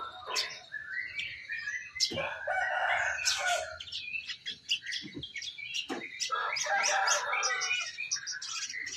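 Domestic canary singing in long, fast trilled phrases.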